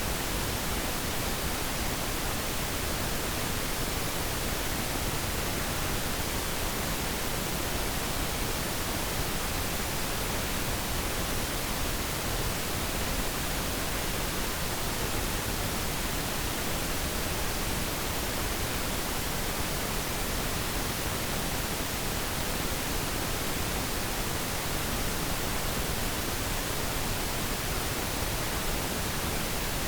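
Steady pink noise: an even, unchanging hiss spread across all pitches, with less treble than white noise.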